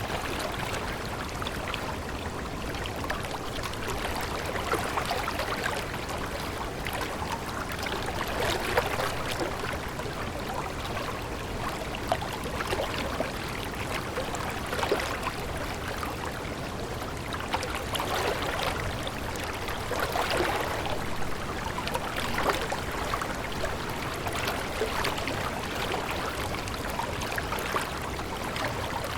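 Running water, a stream splashing steadily over stones, with many small irregular splashes.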